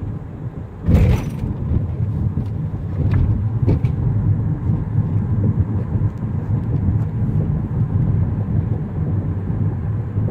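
Road traffic at a railroad crossing: the steady low rumble of cars and trucks passing or idling, with a short loud hiss about a second in and a few light clicks a couple of seconds later.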